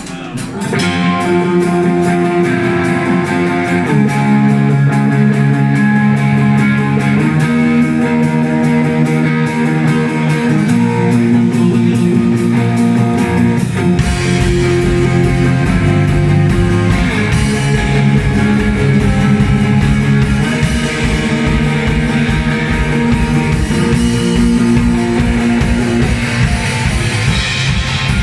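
Live rock band starting a song: guitar chords ring out on their own at first, then a drum beat and bass come in about halfway through.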